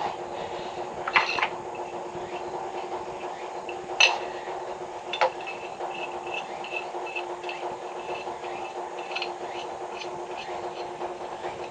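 A few sharp metallic clinks, three of them, the loudest about four seconds in, with a run of light ticks after them, over a steady hum of several tones.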